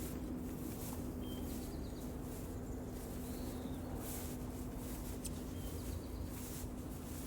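Outdoor ambience: a few faint, brief bird chirps over a steady low hum and background noise.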